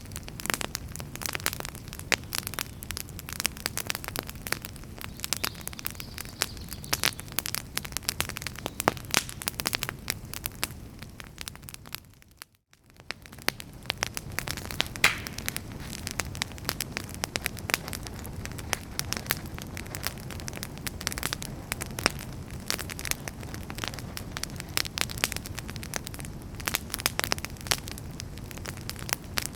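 Wood fire crackling in a fireplace: many sharp pops and snaps over a steady low rush of flame. About twelve seconds in the sound fades out to near silence for a moment and then fades back in.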